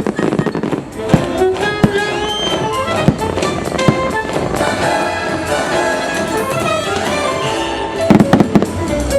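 Orchestral show music with fireworks going off over it: single bangs about a second apart, then a quick cluster of bangs near the end.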